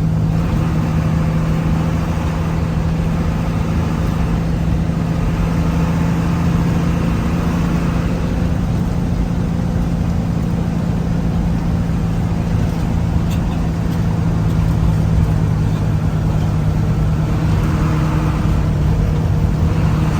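Engine and road noise of a moving road vehicle, heard as a steady low drone with a constant hum, unchanging throughout.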